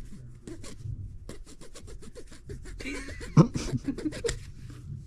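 A butter knife sawing at the plastic nozzle of a grease tube to cut it open: a quick run of rasping strokes, several a second, with one louder knock about three and a half seconds in.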